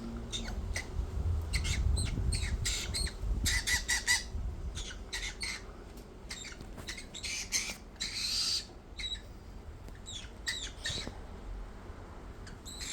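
Pet bird giving a rapid string of short, sharp squawks and chirps, densest over the first four seconds and then more scattered, with one longer harsh call about eight seconds in.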